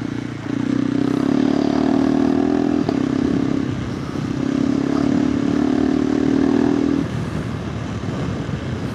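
KTM 390 Adventure R's single-cylinder engine idling through a Norifumi Whoops slip-on exhaust with the dB killer fitted. It gives a steady drone that grows stronger twice, for about three seconds each time, and eases off near the end.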